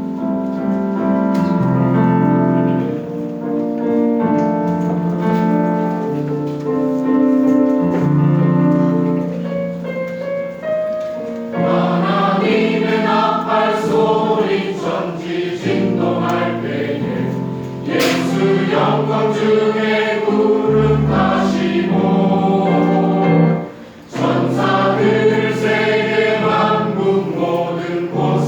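Choir singing a Christian hymn in sustained chords, with a short breath between phrases about three-quarters of the way through.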